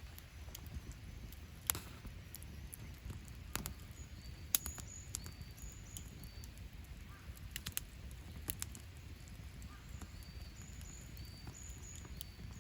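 A wood campfire crackling, with sharp pops every second or two over a low steady rumble. A bird repeats short, flat, high whistled notes in the background.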